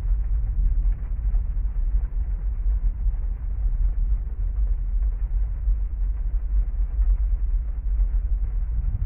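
Heavy rainstorm heard from inside a parked car: a steady, dense, low rumbling wash of rain with no distinct drops or claps standing out.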